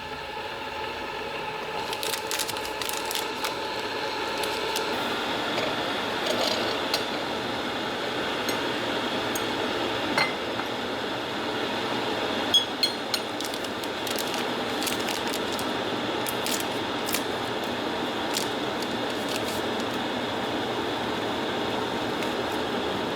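Kettle heating water, its rushing hiss building over the first few seconds and then holding steady toward the boil, with a few sharp clinks of glass or ceramic teaware about ten and thirteen seconds in.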